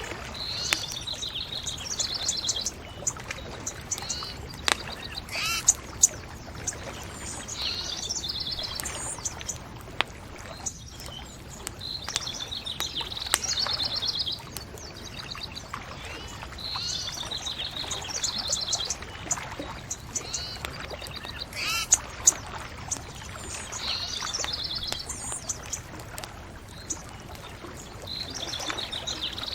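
A songbird singing short, high trilled phrases that repeat every few seconds, over the sharp pops and crackle of a bonfire.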